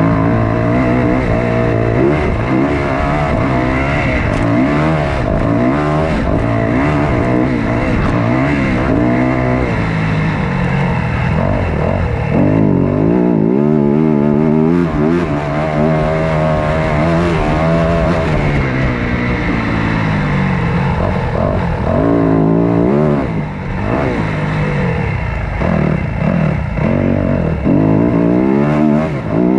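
Motocross dirt bike engines revving hard up and down through the gears, several engine notes overlapping and rising and falling again and again.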